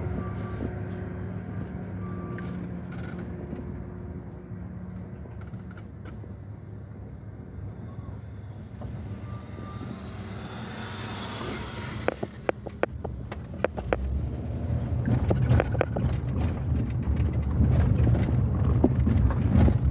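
A car driving, with a steady low engine and road hum. About twelve seconds in comes a run of sharp knocks and rattles, and the low rumble then grows louder.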